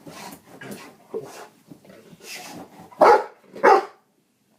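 A dog barking twice in quick succession, loud, about three seconds in, after softer scattered sounds.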